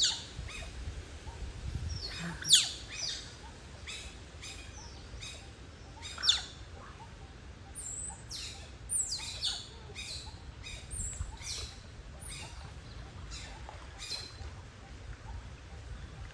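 Otters chirping: a string of short, high squeaks that sweep steeply downward in pitch, coming irregularly, the loudest about two and a half and six seconds in.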